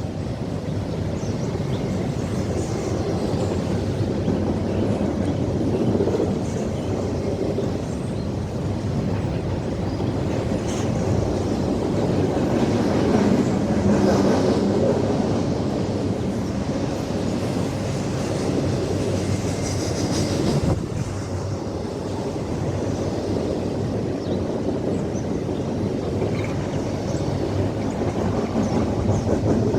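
Norfolk Southern freight train rolling past, a steady rumble of steel wheels on rail with clacking over the rail joints.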